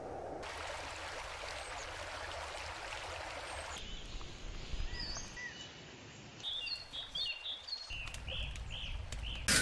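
Forest ambience: a steady rushing noise for the first few seconds, cut off abruptly, then small birds chirping in short, quickly repeated calls that grow busier toward the end.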